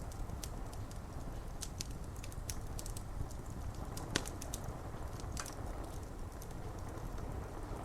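Fire crackling with scattered sharp pops over a steady low rumble of rain on window glass; one louder pop about four seconds in.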